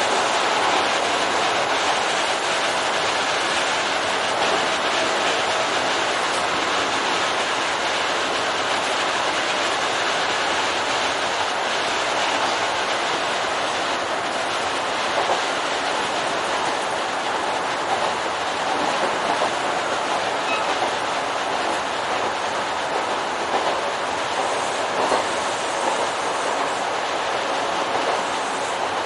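Kintetsu commuter electric train running along the line: a steady rolling noise of wheels on rails that holds even throughout.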